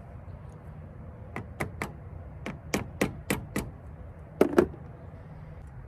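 Sharp taps and knocks on a car battery terminal clamp as it is worked down onto the battery post: about eight quick taps, then a louder double knock near the end.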